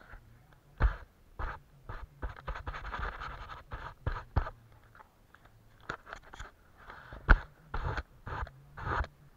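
Close-up painting sounds: a brush scratching and dabbing on paper in irregular strokes, with a few louder knocks.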